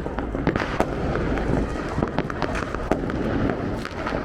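Firecrackers going off all around: many sharp cracks and pops at irregular intervals over a steady rumble of more distant bangs.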